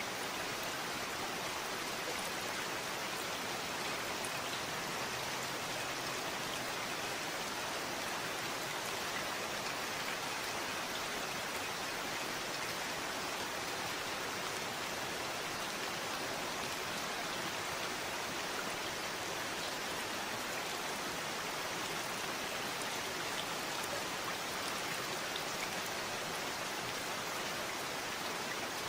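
Steady rain falling, an even hiss of many drops with faint scattered drop ticks, unchanging throughout.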